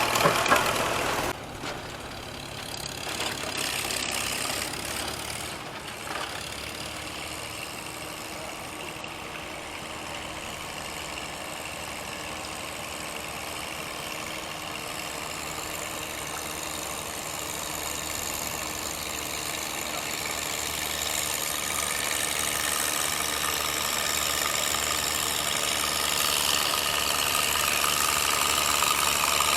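Antique gas tractor engine running steadily, growing gradually louder toward the end. A louder sound cuts off about a second in.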